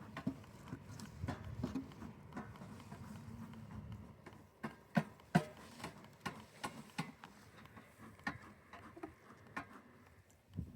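Scattered light clicks and taps of beehive parts being handled while the hive is open, with two louder knocks about five seconds in.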